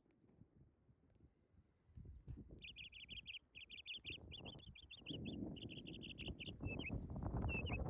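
A small bird starts calling about a third of the way in, with a string of quick trilled chirp phrases that repeat over and over. A low, noisy rumble with faint crackles builds up beneath it in the second half.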